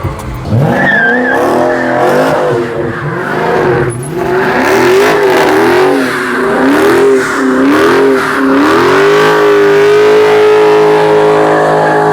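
Car doing a burnout: the engine revs up and down repeatedly, then holds at high revs for the last few seconds, with the noise of spinning tyres throughout.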